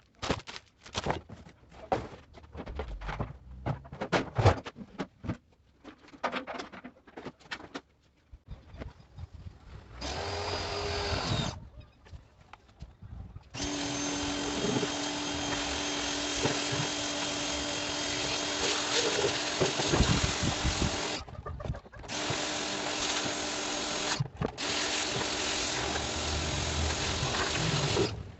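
Clattering and knocking of metal parts and tools being handled. Then a motor-driven power tool runs in long steady stretches with a faint steady whine, stopping briefly a few times.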